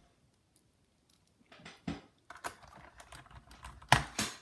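A small screw being driven into a laptop's chassis with a precision screwdriver: a run of light clicks and faint scraping, with the loudest click near the end.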